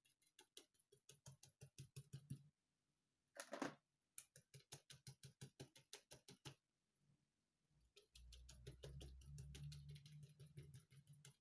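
Paintbrush dabbed quickly and repeatedly on the painting to stipple foliage texture: faint soft taps about six a second, in three runs with short pauses. A faint low hum joins under the last run.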